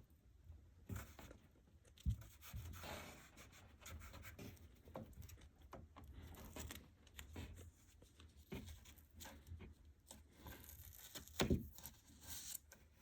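Tape being pulled off the roll and torn, with rubbing and handling of wooden molding trim. A few light knocks come through, the sharpest about two seconds in and near the end.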